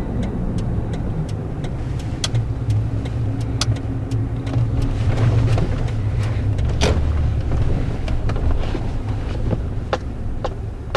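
Road noise inside a moving car: a steady low rumble of engine and tyres, with a faint run of evenly spaced ticks over it.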